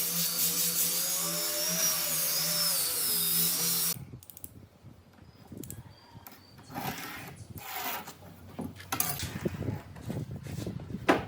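A power tool running steadily, its pitch wavering slightly, cuts off suddenly about four seconds in. Quieter scraping and knocking of wood being handled follow, with a sharp click near the end.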